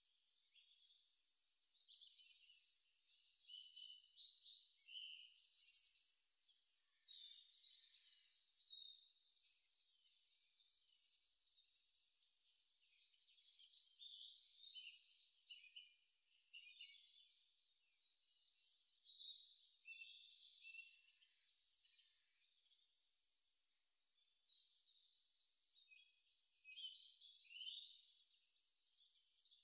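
Faint, high birdsong: a short downward-slurred chirp repeats about every two and a half seconds over a steady chatter of other high chirps.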